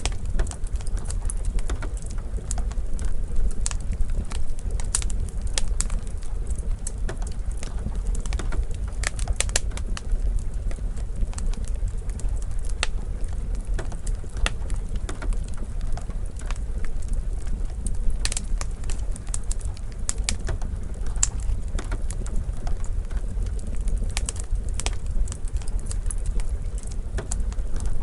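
Wood fire crackling in a fireplace: scattered sharp crackles and pops over a steady low rumble.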